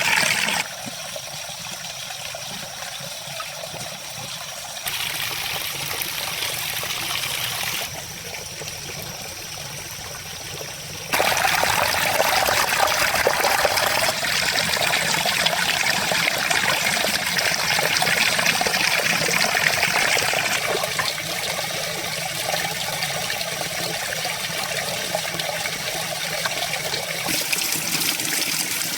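Running water trickling and splashing steadily, in several stretches whose loudness and tone change suddenly, as from one take to the next.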